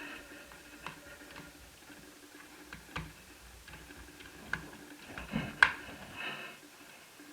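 Scattered sharp plastic clicks and taps from an Asus Eee PC 1001P netbook's case and battery latch being handled as the battery is removed. The loudest click comes about two-thirds of the way in, amid a brief cluster of smaller clicks and scrapes.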